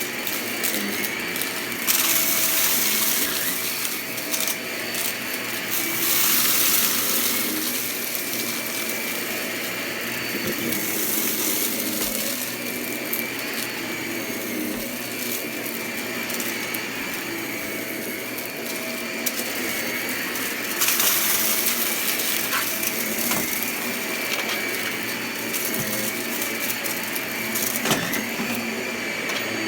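Vacuum cleaner running with a steady whine, picking up crunchy debris, with louder rushing surges every several seconds.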